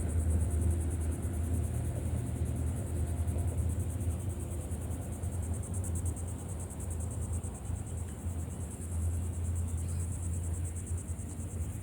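A chorus of insects, crickets or similar, trilling in a fast, even, high-pitched pulse over a steady low rumble.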